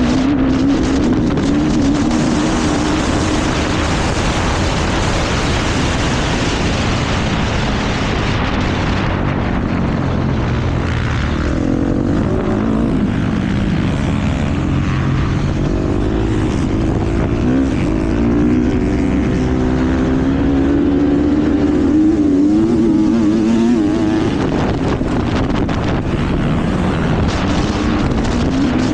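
KTM motocross bike's engine at racing revs, its pitch climbing and dropping again and again as the rider accelerates and backs off around the track.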